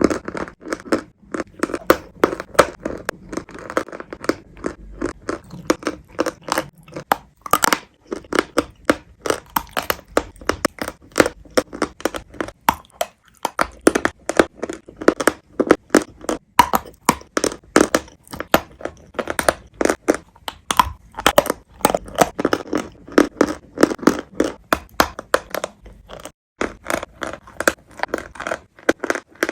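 Close-up crunching of chalk and clay: dense, irregular cracks and crumbles, cut into short clips with brief breaks about a third of the way in and near the end.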